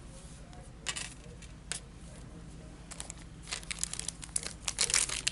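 A couple of soft clicks of cards being handled, then crinkling and tearing of a foil trading-card pack wrapper, a dense run of crackles that grows louder near the end.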